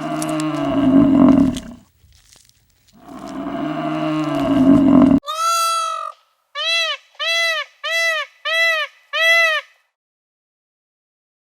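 A cow mooing twice in long, low calls. Then a different animal takes over with one longer note and five short, arched, higher-pitched calls in quick succession.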